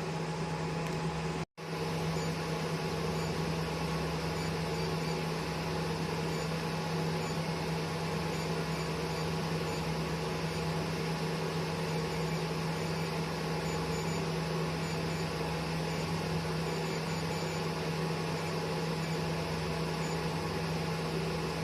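Steady, even electrical-mechanical hum of the switched-on RF body contouring machine. It drops out for an instant about a second and a half in.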